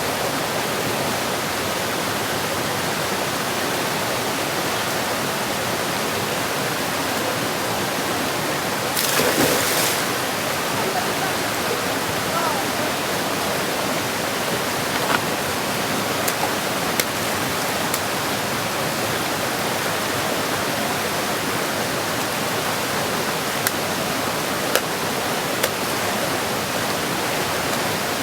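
Mountain stream rushing over stones in a steady wash of water noise. About nine seconds in there is a brief louder burst, and a few short sharp clicks follow later.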